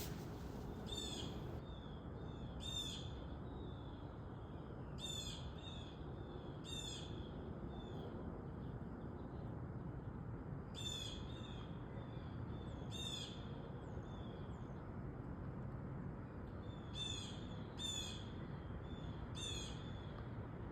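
Blue jay calling repeatedly: short, harsh calls, some in pairs, every one to four seconds, over steady low background noise.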